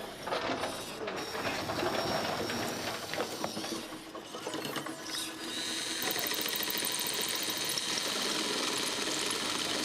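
Sound effects of a robot running: mechanical whirring and clattering. About six seconds in it settles into a steady high whine with a fast ticking.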